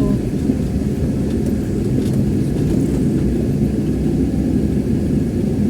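Steady low rumble of an ambulance's engine and tyres as it drives along the road.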